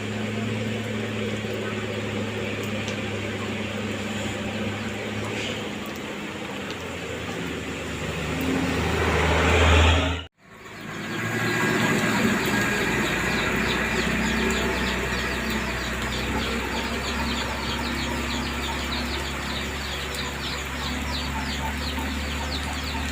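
Truck engine running steadily, growing louder for a couple of seconds before an abrupt cut about ten seconds in. After the cut an engine hums on under a rapid, even clucking of chickens.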